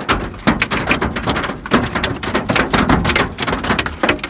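Hailstones drumming on the roof and windows of a car, many irregular sharp hits in a dense, loud clatter, heard from inside the cabin. The hailstones are big, like ice.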